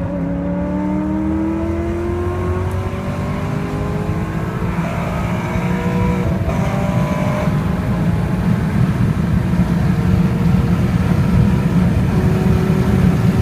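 Maserati Quattroporte V8 with a Stage 1 Tubi aftermarket exhaust accelerating hard onto the highway, fully warmed up. The engine note climbs in pitch, drops twice at gear changes about five and six seconds in, then pulls on and grows louder.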